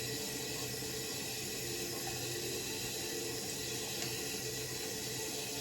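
Bathroom sink tap running in a steady stream.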